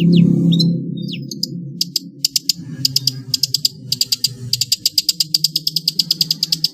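Long-tailed shrike (pentet) singing a fast chattering rattle of short, high clicky notes. A few scattered chirps come first; from about two seconds in the notes pick up speed into a dense rattle that stops abruptly at the end. A steady low hum runs underneath.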